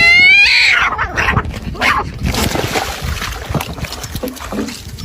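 An animal's drawn-out, slightly rising cry that ends about half a second in, followed by scattered knocks and rustling.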